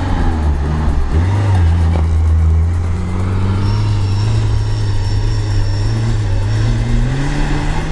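Lada Niva's four-cylinder petrol engine pulling under load in first gear, high range, as the car climbs a snowy slope. The revs step up about a second in, hold steady, and rise again near the end.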